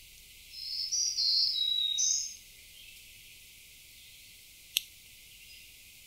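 A songbird singing one phrase of several high notes, lasting about two seconds, over faint outdoor background; a single sharp click comes near the end.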